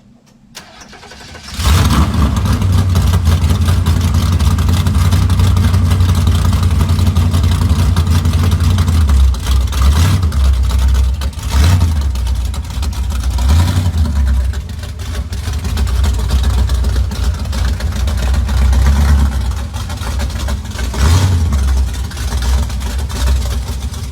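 Muscle car engine cutting in loud about a second and a half in and running with a heavy, deep exhaust rumble, swelling briefly a few times.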